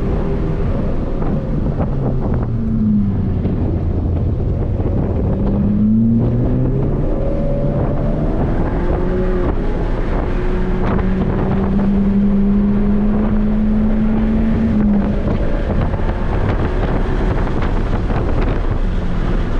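2006 Volkswagen GTI MK5's turbocharged 2.0-litre four-cylinder, with a catless downpipe and Magnaflow cat-back exhaust, heard from inside the cabin over wind noise under hard track driving. The engine note dips and climbs through the corners, pulls steadily for several seconds past halfway, then drops sharply about three-quarters of the way in, as on an upshift.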